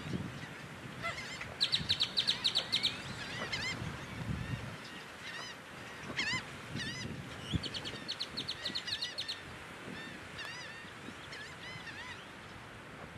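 Several wetland birds calling. Twice, about two seconds in and again past the middle, there is a quick run of sharp, high repeated notes at about ten a second, among scattered short rising-and-falling chirps.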